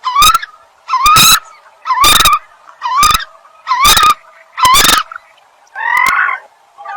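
Common coot calling: a series of short, loud calls, about one a second, each with a slight upward hook in pitch. The call about six seconds in is softer.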